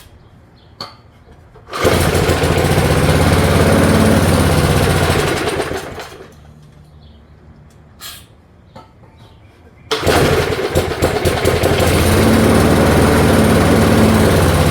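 Small engine of a 1978 Allis Chalmers push mower catching suddenly, running about four seconds and dying away, then catching again about ten seconds in and running on. It will not keep running: the carburetor is not picking up fuel, which the mechanic puts down to a bad carburetor diaphragm.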